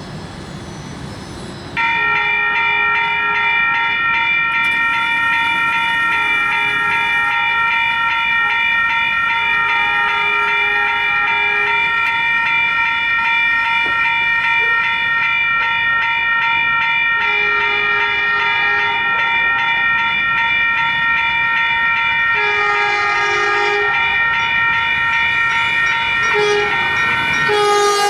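Diesel locomotive's multi-chime air horn sounding one long unbroken blast that starts suddenly about two seconds in. Near the end its pitch drops as the train passes.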